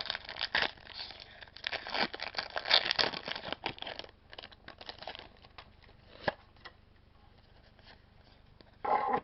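A Pokémon booster pack's foil wrapper being torn open and crinkled for about four seconds, then a few scattered crackles as it is handled, dying away to quiet.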